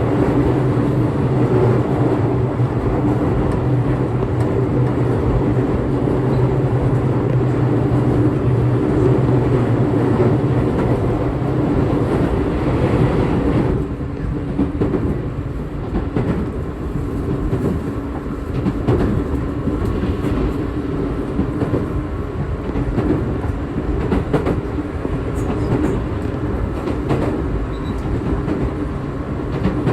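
Electric local train running, heard from inside the passenger car: a steady hum over the rumble of wheels on rail. About halfway through, the hum stops and the sound drops and thins.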